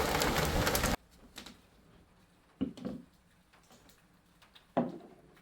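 Steady heavy rain that cuts off suddenly about a second in, followed by a quiet room with a few soft knocks and clicks, including a double knock and a single louder one near the end.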